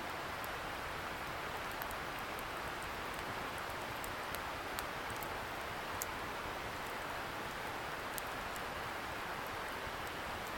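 Wood bonfire crackling, with scattered sharp pops and ticks, over a steady rushing hiss from a distant river.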